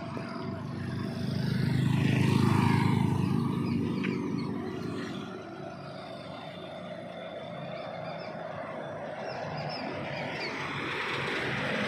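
A truck passing close by on a highway. Its engine and tyres swell to a peak about two and a half seconds in, then fade, and another vehicle approaches, growing louder near the end.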